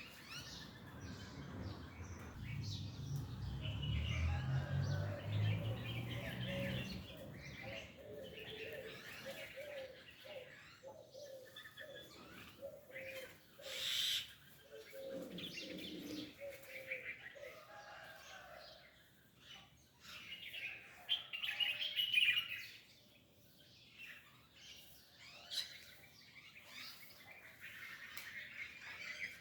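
Several birds chirping and singing in short, overlapping phrases, with a run of lower repeated notes in the first half. A low rumble runs for a few seconds near the start, and there is one sharp click about halfway through.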